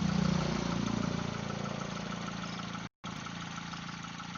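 Tractor's diesel engine running, loudest in the first second and then easing back to a steady idle. The sound breaks off for an instant about three seconds in.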